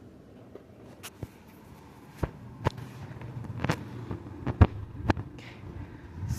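A series of about seven sharp knocks and clicks at irregular intervals, the loudest a little past the middle, over a faint low background hum.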